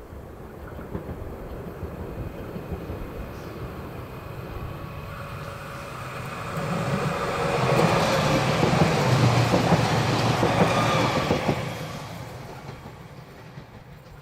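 A train passing on the Semmering railway: rail rumble builds, peaks about two-thirds of the way through with a few steady whining tones over it, then fades away.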